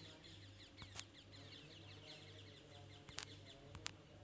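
Near silence with faint, rapid bird chirps in the background and a few soft clicks.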